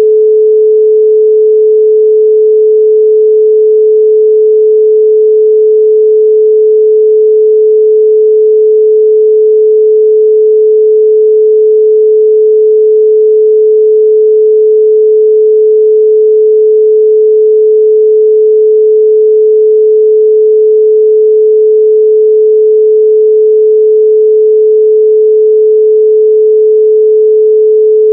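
Steady 432 Hz pure sine tone: a single loud, unchanging pitch with no overtones.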